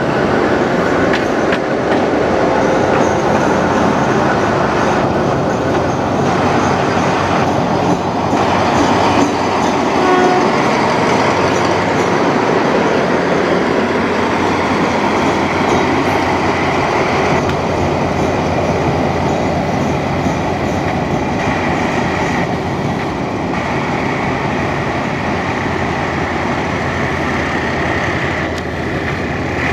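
State Railway of Thailand diesel-electric locomotive and train moving past close by: the heavy diesel engine running and the wheels clattering over the rails, loud and continuous.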